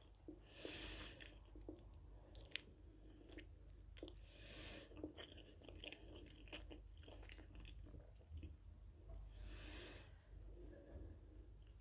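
Close-up chewing of a soft, sugar-coated fried quark ball, with many small wet mouth clicks and three short hisses spread through it.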